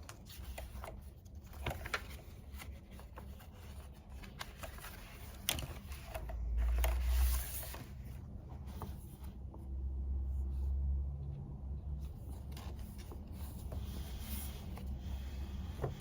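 Desk-work handling sounds between bouts of typing: scattered light taps and clicks, and two longer, deeper scuffing sounds about six and ten seconds in.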